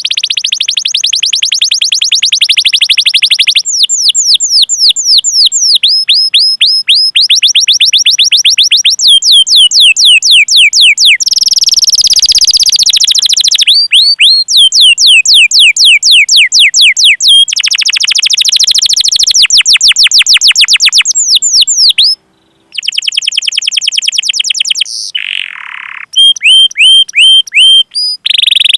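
Domestic canary singing a loud, fast song: rapid trills alternating with runs of repeated downward-sliding 'cuit cuit' notes, the phrase changing every second or two, with one short break about two-thirds of the way through.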